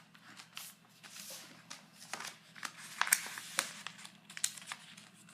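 A sheet of paper rustling and crinkling as it is lifted and folded, in a run of short, crackly rustles.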